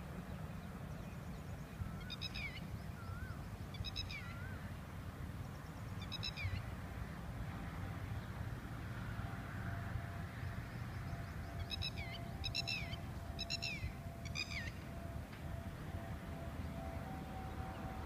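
Birds calling in the trees: three short, sharp calls with a falling end, about two seconds apart, then four more in quick succession about twelve seconds in. Softer warbling notes come in between the early calls, over a steady low rumble.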